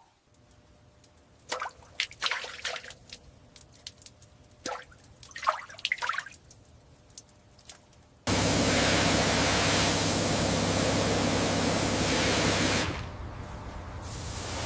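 Scattered small knocks and clicks, then a loud steady hissing spray with a low machine hum underneath starts suddenly about eight seconds in. It drops in level about four seconds later and keeps going.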